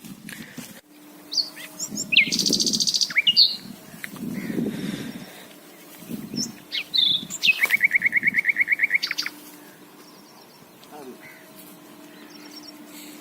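Birds calling: sharp sweeping notes and a quick high trill about two seconds in, then a rapid, evenly pulsed trill of about seven notes a second lasting nearly two seconds, the loudest sound here. A few low, muffled sounds lie underneath.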